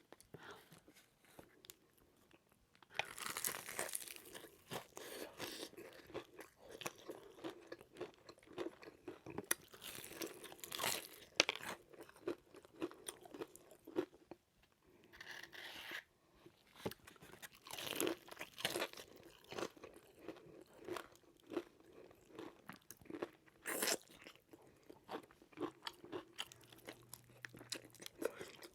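Close-miked bites and crunchy chewing of fried chicken, in bursts of loud crackling crunches with short quieter pauses between mouthfuls.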